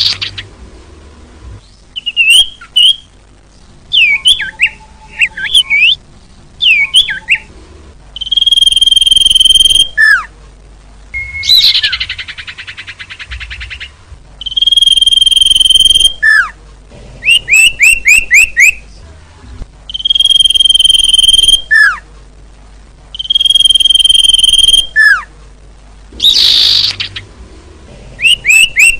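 Recorded songbird calls used as a bird lure: held, level high whistles of about a second and a half each come round every few seconds, alternating with quick runs of short downward-sweeping chirps and two harsh buzzy rasps.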